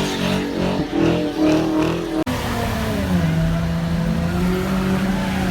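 Car engine revving, its pitch rising, then a sudden break about two seconds in, after which an engine holds a steady note.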